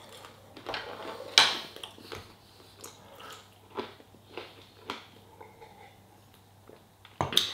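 A man chewing food close to the microphone, with wet mouth clicks and smacks; the sharpest click comes about a second and a half in. In the second half he sips a drink from a glass.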